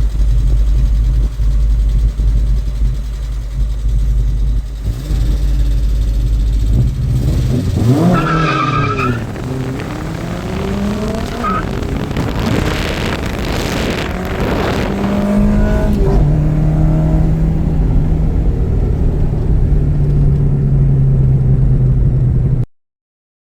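Car engines running steadily, with an engine note rising and falling as a car revs and passes about eight seconds in, more varying engine sound through the middle, then a steady hum until the sound cuts off suddenly near the end.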